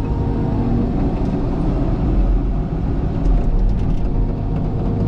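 Diesel engine of a heavy earthmoving machine running steadily at constant speed, a low even drone with a few faint ticks.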